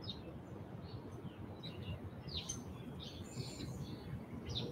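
Garden birds chirping faintly: short scattered calls, some quick rising or falling, over a low steady outdoor background noise.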